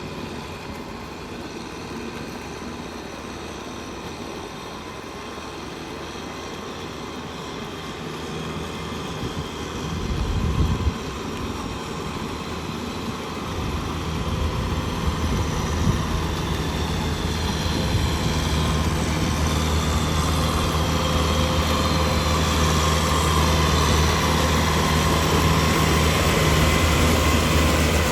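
Tractor engine running steadily, growing louder from about halfway through.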